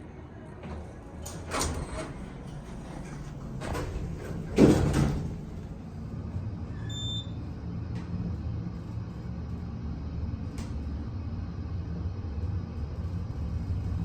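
Montgomery hydraulic elevator's doors sliding shut, ending in a thud, after which the car moves off with a steady low hum from the hydraulic drive. A short high beep sounds partway through the ride.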